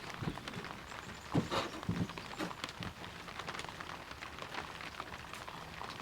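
Handling noises: scattered knocks and light clatter as things are shifted about, loudest about a second and a half in, over a steady hiss of rain.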